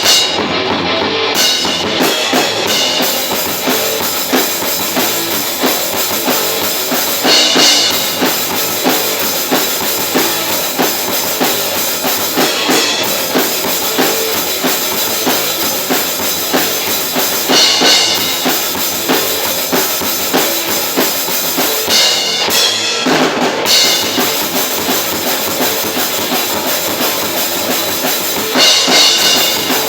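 Experimental metal band playing live in rehearsal: drum kit with bass drum and snare under a dense band sound. Cymbal crashes ring out about every five seconds.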